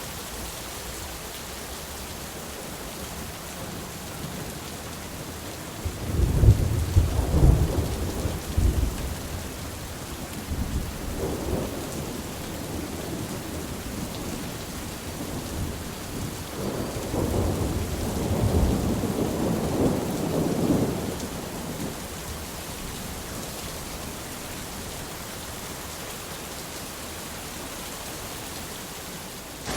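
Steady rain with rolls of thunder: a loud rumble about six seconds in, a fainter one shortly after, and a longer roll from about the middle to two-thirds of the way through.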